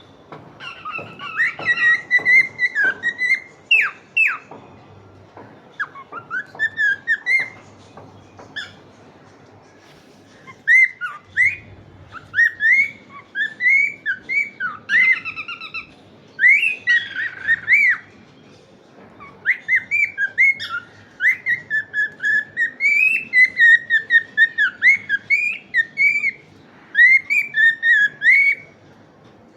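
Cockatiel chirping and whistling in runs of short, rising, whistled notes, broken by pauses of a few seconds.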